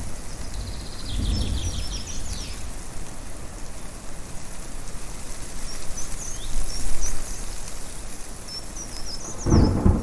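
A steady rush of wind with birds chirping in short bursts now and then. A low rumble of thunder comes about a second in and a stronger one near the end.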